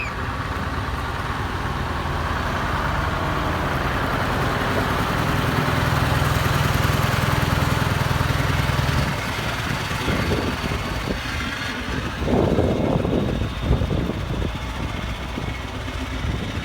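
Heavy truck engine running, growing louder over the first eight or nine seconds and then dropping back.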